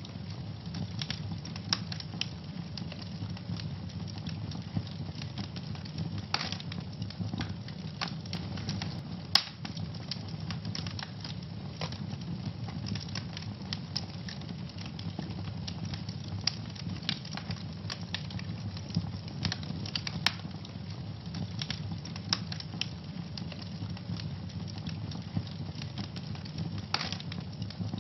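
Wood fire burning in a fireplace: a steady low rumble of flames with irregular sharp crackles and pops throughout, a few of them louder.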